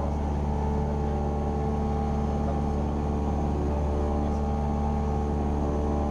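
Cessna 172R Skyhawk's four-cylinder Lycoming engine and propeller droning steadily at constant power in flight, heard from inside the cockpit.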